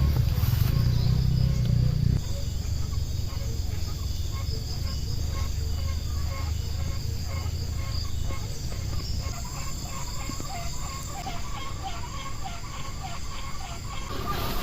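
Outdoor animal calls. A low hum drops away about two seconds in. About ten seconds in, a run of short, quick repeated calls comes several times a second for about three seconds.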